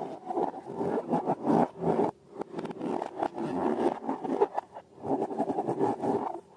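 Slime being worked: a quick, irregular run of sticky scraping and squelching strokes, with short pauses.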